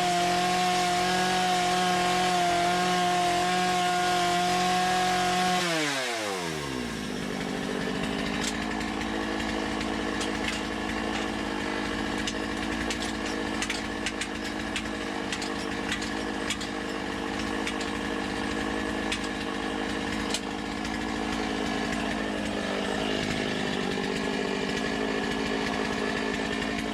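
Two-stroke chainsaw running at high revs while carving wood. About six seconds in the throttle is released: the pitch falls sharply and the saw settles into a steady idle for the rest of the time.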